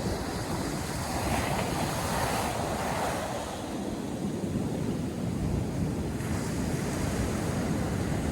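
North Sea surf breaking and washing on the shore, with a wave swelling about a second in and easing off. Wind rumbles on the microphone throughout.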